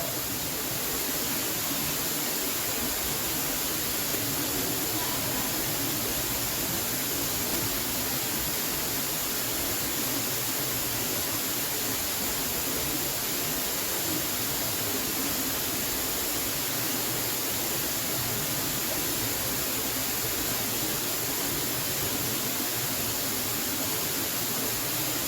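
Waterfall rushing: a steady, unbroken hiss of falling water at an even level throughout.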